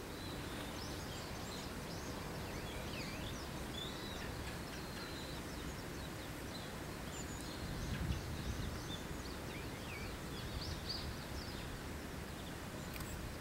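Small birds chirping and twittering in short high calls over a steady background hiss, with a brief low rumble about two-thirds of the way through.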